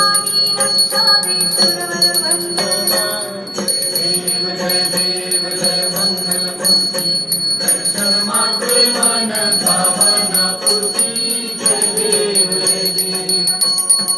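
Hindu aarti with a hand bell ringing steadily over devotional music, the melody shifting in pitch.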